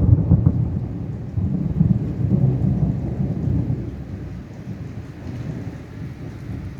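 Thunder rumbling over steady rain. The rumble is loudest in the first few seconds and dies away over the rest.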